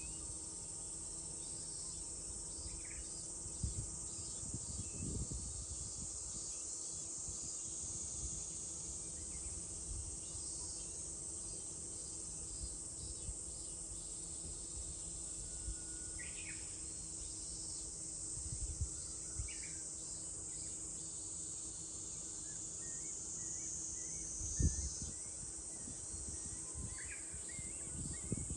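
Steady, high-pitched chorus of summer cicadas, with a few short bird chirps scattered through it and a few soft low thumps, the loudest about two thirds of the way in.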